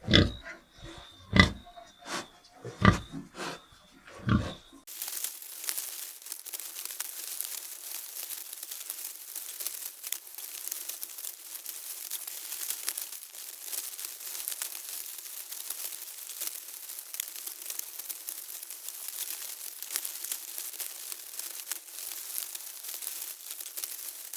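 An animal giving about six short, deep grunts over the first four seconds or so, then a steady crackling hiss full of tiny clicks for the rest.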